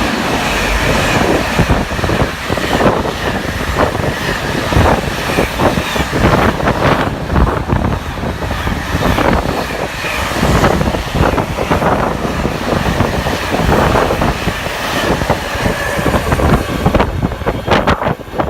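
Freightliner freight train hauled by a Class 90 electric locomotive passing close by, the wagons' wheels rumbling and clicking rapidly over the rail joints. The high hiss thins out near the end as the train draws away.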